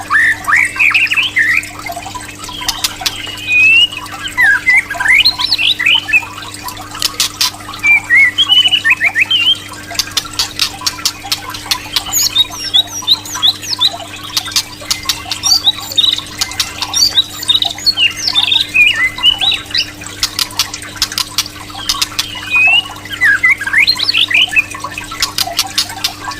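White-rumped shama (murai batu) singing in rapid bursts of sweeping whistled phrases, rising and falling, broken up by sharp clicking notes.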